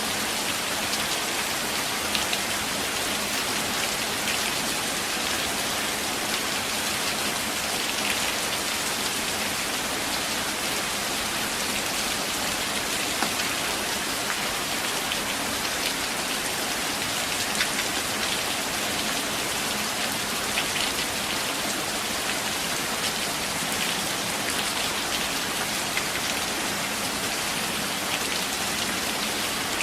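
Steady forest rain: an even hiss of drops falling on leaves and ground, with scattered sharper ticks of single drops.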